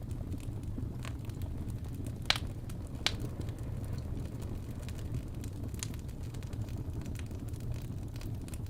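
Wood fire burning in a fireplace: a steady low rumble of the flames with sharp crackles and pops of the burning logs, the loudest pop a little over two seconds in.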